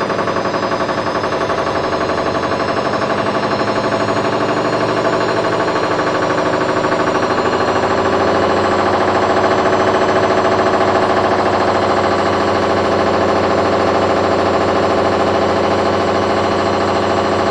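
Candy front-loading washing machine spinning its drum at about 800 rpm, a loud steady whir with a fast rattling pulse, growing a little louder about eight seconds in. This is the spin between rinses of a cotton wash.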